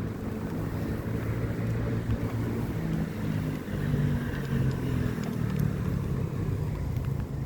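Street traffic heard from a moving bicycle: a motor vehicle's engine hum that rises and shifts in pitch in the middle, over a steady low rumble of wind on the microphone.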